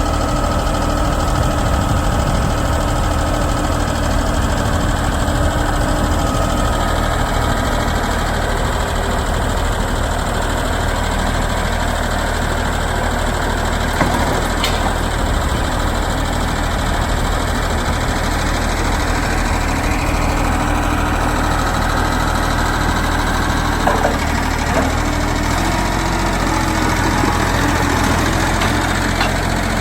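Engine of a Vermeer Flex Track 75 backhoe/trencher combo running steadily. A sharp knock comes about halfway through and another near the end.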